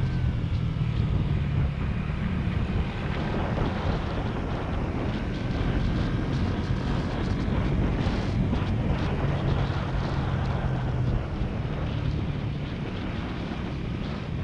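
Motorcycle engine running at steady speed while riding, with wind buffeting the microphone.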